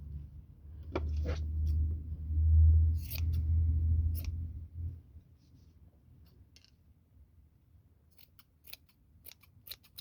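Scissors snipping yarn while a pompom is made, a series of short sharp cuts, with a quicker run of snips near the end. A low handling rumble runs under the cuts for the first few seconds.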